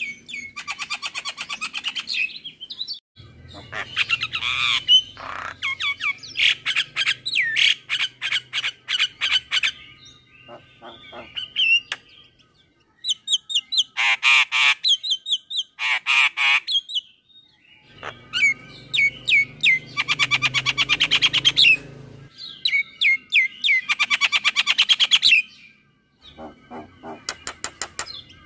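Male Javan myna (jalak kebo) singing loudly in phrases of a few seconds each, made up of rapid rattling clicks, harsh squawks and whistled notes, with brief pauses between phrases.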